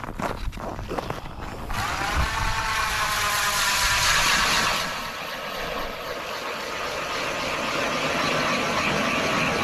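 A few short knocks, then about two seconds in a small motor starts up, its pitch rising slightly, and runs steadily, louder with a hiss for its first few seconds.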